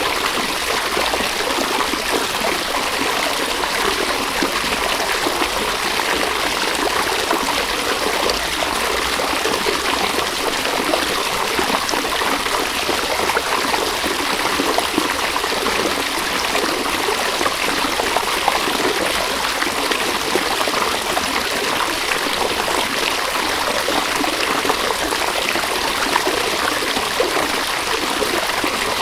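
River water flowing and trickling over stones: a steady, even rush with fine splashing detail.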